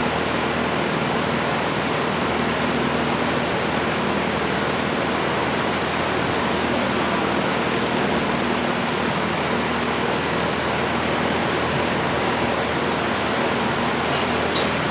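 Steady, even rushing noise of moving air with a faint low hum, and a brief click near the end.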